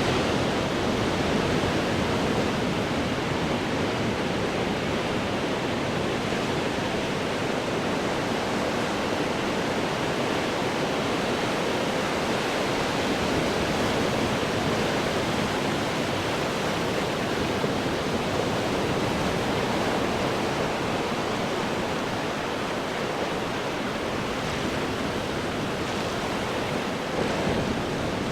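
Ocean surf breaking on rocks, heard as a steady, dense rush of water with no single wave crash standing out.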